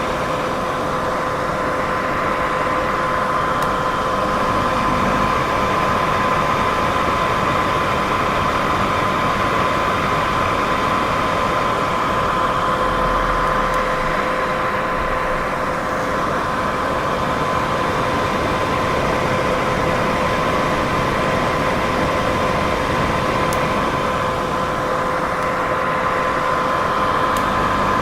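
Steady, unchanging white noise: an even hiss across all pitches with a constant two-note hum running under it.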